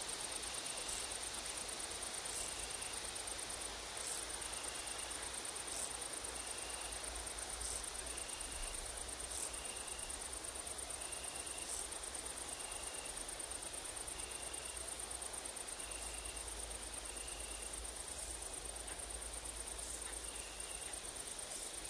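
Summer insect chorus of grasshoppers and crickets: a steady high-pitched stridulating buzz, with a short chirp repeating about once a second, over a low rumble of wind.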